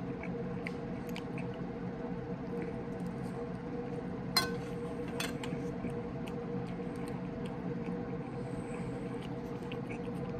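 A person chewing fried chicken, small mouth clicks and squishy chewing sounds over a steady low hum. About four and a half seconds in, a sharp clink as the knife and fork are set down on the china plate, with a second clink about a second later.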